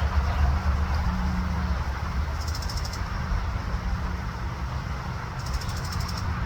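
A small bird's short, high, buzzy trill, heard twice about three seconds apart, over a steady low outdoor rumble.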